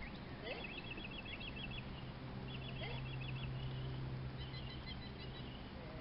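A small bird singing in three bursts of rapid, evenly spaced chirps, about eight a second, over a steady low hum.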